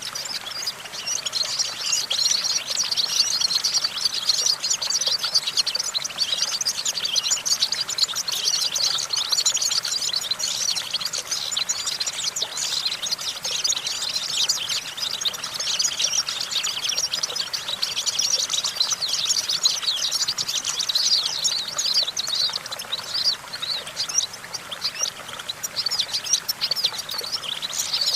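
European goldfinch singing a continuous, rapid twittering song with quick trills and chirps.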